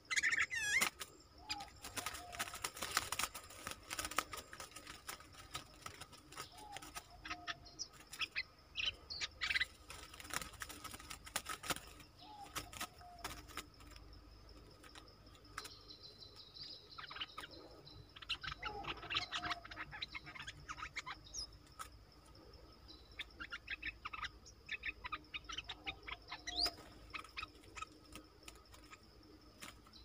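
Bulbul chirping and warbling in repeated short bursts, with scattered clicks and rustles. A faint steady insect buzz runs underneath.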